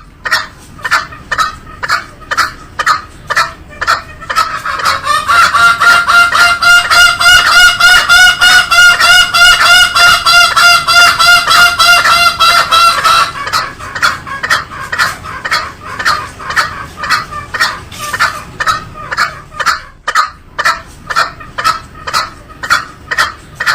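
Green junglefowl calling in a fast series of short, repeated notes, about three a second. From about four seconds in the notes run together into a louder, quicker burst that lasts around nine seconds before falling back to separate notes.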